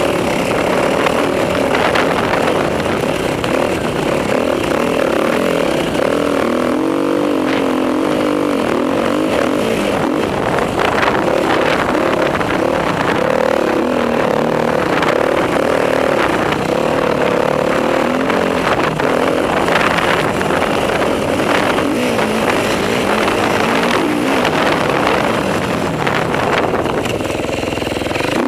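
Enduro motorcycle engine being ridden hard on a motocross track, the revs rising and falling continuously through acceleration, shifts and throttle-offs.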